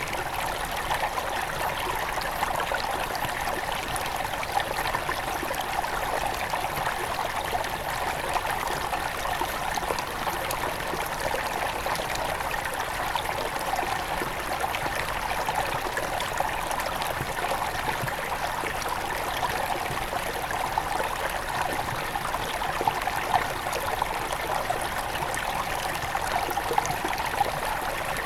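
Small forest river near its source running over stones: a steady rush and babble of water, with many small splashes.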